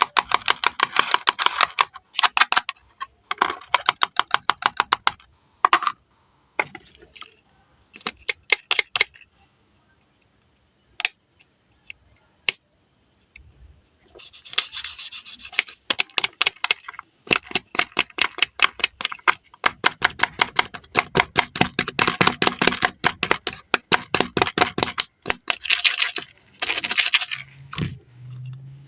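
Velcro tearing as toy fruits joined with velcro are cut apart: bursts of rapid crackling a second or two long, with single clicks between them and a quieter stretch about ten seconds in.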